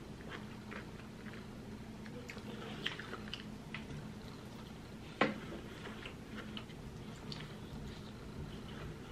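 Close-up sounds of a person chewing a mouthful of cheesy instant noodles: wet mouth noises and small smacks at an irregular pace, with one sharper, louder click about five seconds in.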